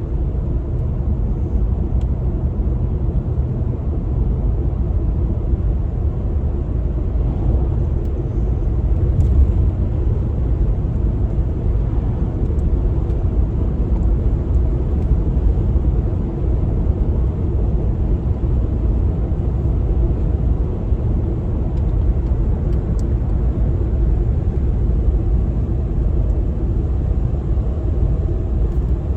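Pickup truck driving steadily on cruise control: a constant low rumble of engine and road noise.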